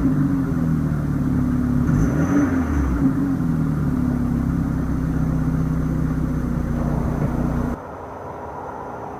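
BMW 428i Gran Coupe's 2-litre twin-scroll turbocharged inline-four running: a brief rev about two seconds in that falls back to a steady idle. Near the end the sound drops suddenly to a quieter level.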